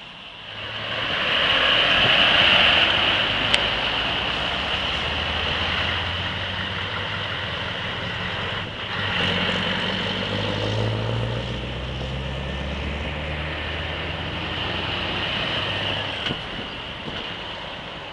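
Scania V8 diesel truck pulling away and accelerating, the engine growing loud within the first couple of seconds. About halfway through the sound drops briefly, then the engine note climbs again.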